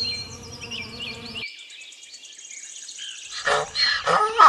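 Wasp buzzing faintly under many short, high rising chirps, the clip cutting off abruptly about a second and a half in. From about three and a half seconds, a different animal's loud calls start, repeating about twice a second.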